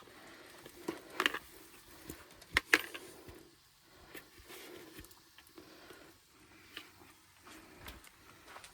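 Scattered clinks and knocks of camp cooking gear being handled during cleanup. The two loudest come about a second and about two and a half seconds in.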